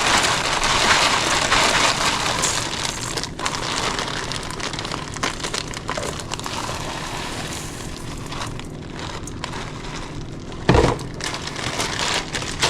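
Dry rice poured out of a bag into a pot, a steady pattering hiss that is strongest in the first couple of seconds and slowly thins out, with a single knock near the end.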